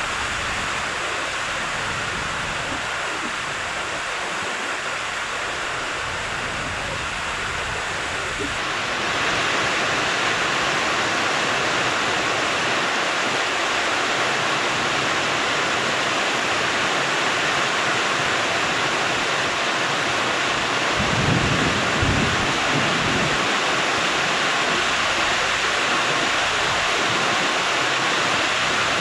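Heavy rain pouring down as a steady rush, getting heavier about a third of the way in. A few low rumbles come through near the end.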